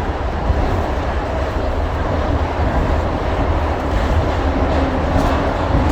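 Shonan Monorail 5000 series suspended monorail train running along the line, a steady low rumble with hiss and a faint steady hum.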